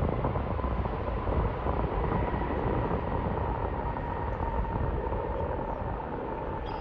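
Jet airliner engines: a steady rumble with a faint whine, slowly fading.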